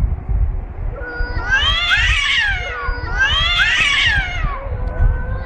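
A cat yowling: two long drawn-out calls, each rising and then falling in pitch, one after the other, over a steady low rumble.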